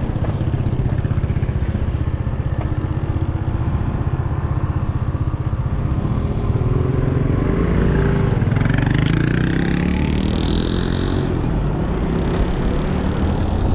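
Wind rumble and city traffic while riding an electric bicycle. From about 8 to 11 seconds in, a passing vehicle adds a rising and falling whine.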